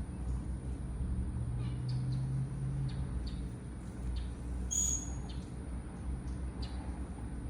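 Small birds chirping: a scattered series of short, high chirps, with one clearer whistled note about five seconds in, over a steady low hum.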